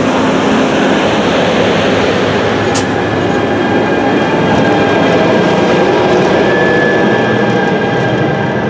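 NJ Transit push-pull commuter train passing close by: the last Comet coaches roll past with a steady wheel-on-rail rumble, then the ALP-45DP dual-mode locomotive pushing at the rear goes by, adding a steady whine.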